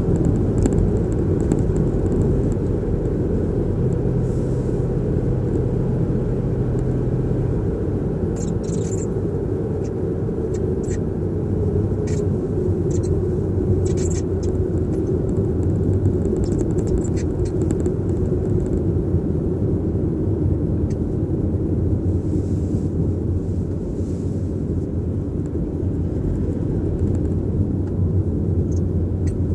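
Steady road rumble inside the cabin of a new Toyota Prius on the move, with irregular faint ticks or creaks scattered through the middle: the abnormal noise from behind the steering wheel.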